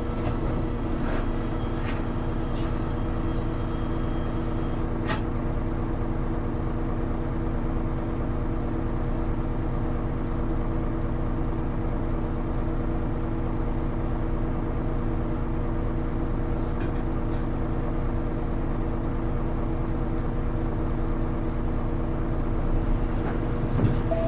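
A Hino Rainbow HR (KL-HR1JNEE) diesel city bus heard from inside the cabin, running at a steady speed with an even engine drone over road noise. There is a single sharp click about five seconds in.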